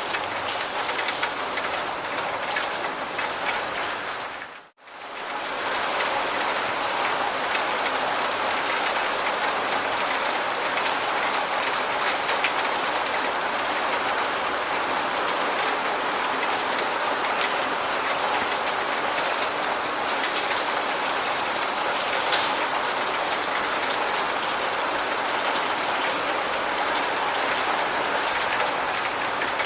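Steady rain falling, a dense even patter of drops. About five seconds in it fades out briefly, almost to silence, and comes straight back as a steadier, heavier rush.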